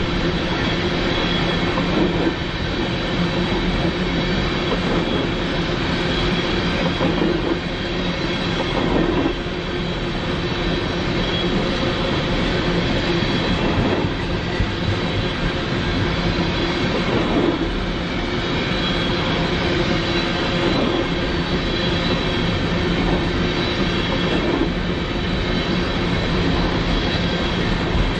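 Freight train cars rolling past close by: a steady rumble of steel wheels on rail with clacking, thin high ringing squeal tones and occasional louder surges as cars go by.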